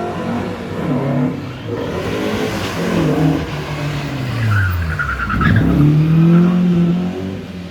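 Rally car engine revving hard, its pitch climbing and falling several times, with a short tyre squeal about two-thirds of the way through as the car slides sideways.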